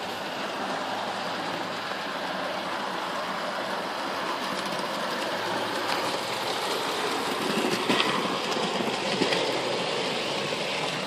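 Bachmann OO gauge model locomotives running round the track, pulling Tri-ang track cleaning cars: a steady whirr of motors and wheels on the rails, with a few sharp clicks about eight and nine seconds in.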